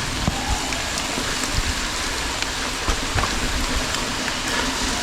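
Mountain bike riding fast down a wet trail in the rain: a steady rush of rain, tyre and wind noise, with scattered knocks and rattles from the bike over rough ground.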